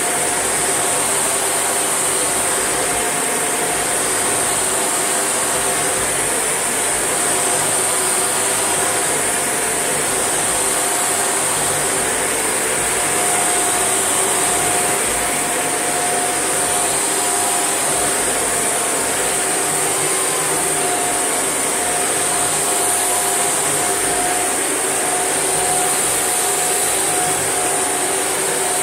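Shark NV801UK upright vacuum cleaner running steadily, with a high-pitched whine over its motor hum.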